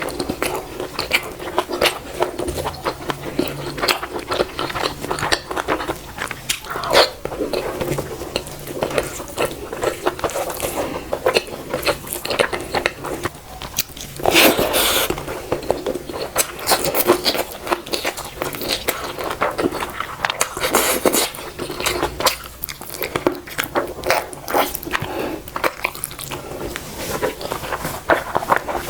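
Close-miked eating: continuous chewing and biting with wet, smacking mouth clicks, louder bites coming in clusters a few times.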